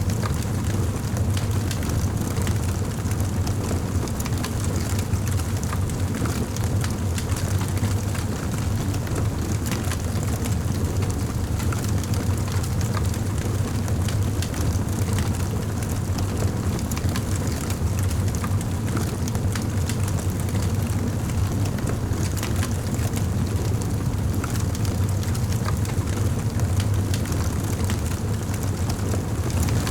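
Wood fire burning in a fireplace, with constant small crackles and pops over a steady low rumble of the flames.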